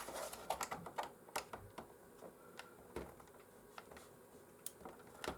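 Scattered faint clicks and taps of plastic and small metal parts as a cover is worked off a PlayStation 4 console during a teardown.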